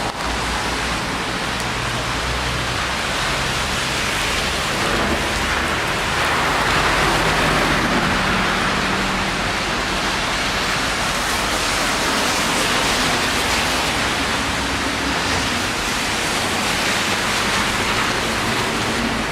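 Steady rain falling on a city street, an even hiss with no pauses. A faint low hum sits underneath.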